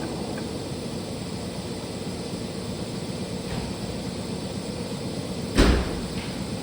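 Metal lathe running with a steady mechanical hum while turning a steel control rod, with a single sharp knock about five and a half seconds in.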